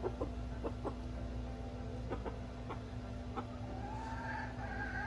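Chickens clucking: a string of short clucks, then a drawn-out hen call near the end. Under them runs a steady low hum.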